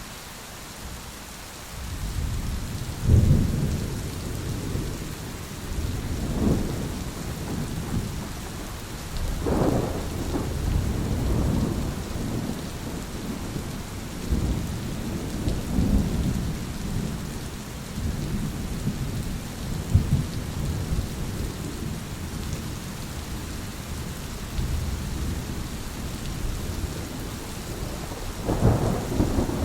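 Thunderstorm: steady rain hiss with rolling thunder that begins about two seconds in and keeps rumbling low through the rest, swelling in several louder cracks and peaks, the last near the end.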